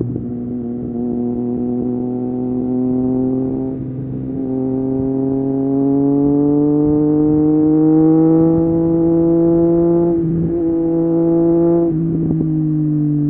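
Triumph Street Triple 765 RS inline-three engine through an Akrapovic exhaust, pulling under way with its note climbing slowly in pitch. The note breaks briefly about 4, 10 and 12 seconds in.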